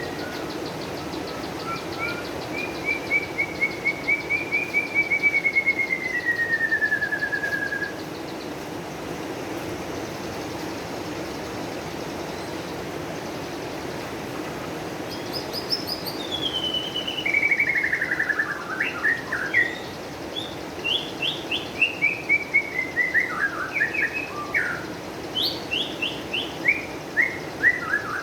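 Songbird singing: a long warbling phrase that slides down in pitch at its end, then after a pause of several seconds a run of quick, falling chirped notes. A steady low background noise runs beneath.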